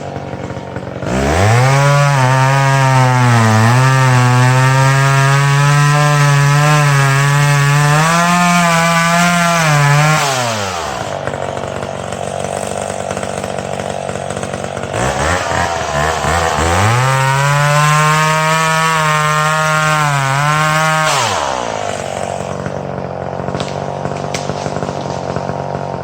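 Chainsaw cutting dead ash: it idles, revs up to full throttle about a second in and holds there for about nine seconds, its pitch dipping as it bogs in the wood, drops back to idle, then makes a second cut of about six seconds before idling again.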